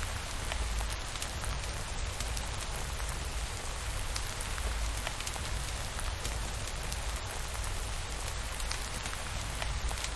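Steady rain with scattered sharp drop ticks over a constant hiss, and a low rumble underneath.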